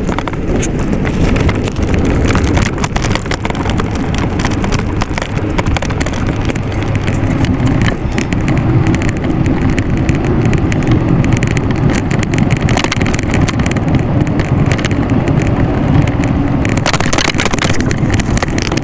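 Steady low rumble of riding noise and wind on a handheld phone microphone during a bike ride, with frequent small knocks and rattles. A louder, hissier rush comes near the end.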